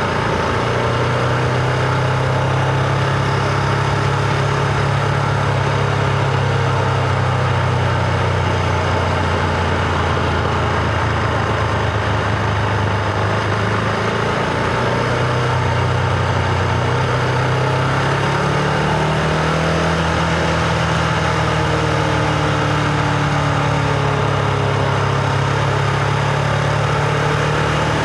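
Husqvarna Vitpilen 701's single-cylinder engine running steadily under way, its revs dipping about halfway through and then climbing a little, with wind and road noise underneath.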